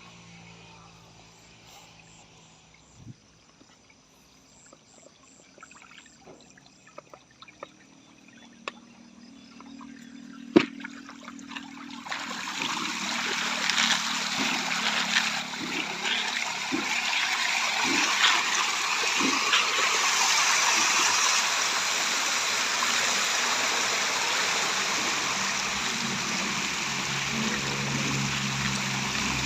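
Quiet at first with a few small clicks and one sharp knock, then from about twelve seconds in a loud, continuous splashing and churning of pond water as patin catfish thrash at the surface feeding.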